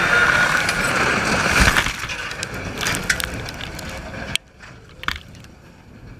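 Loud mechanical noise with rattling clicks that fades and then drops away suddenly about four seconds in, leaving only faint scattered clicks.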